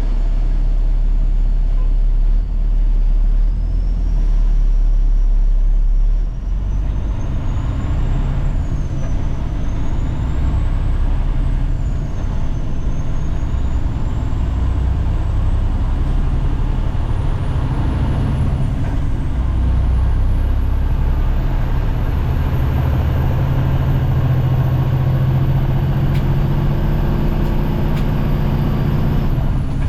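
Kenworth T800 diesel semi truck driving off with an excavator on a lowboy trailer, its engine running under load with a deep rumble and a high whine that rises and falls with the revs.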